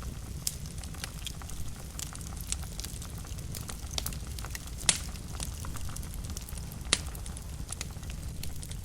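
Wood fire burning in a fireplace: a steady low rumble with scattered sharp crackles and pops, two louder pops about five and seven seconds in.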